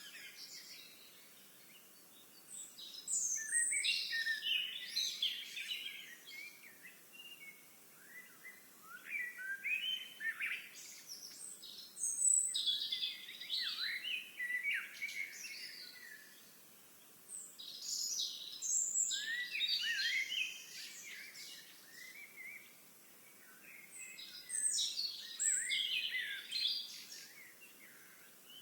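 Songbirds singing in high-pitched bouts of two to four seconds, about five bouts with short pauses between, over faint steady outdoor noise.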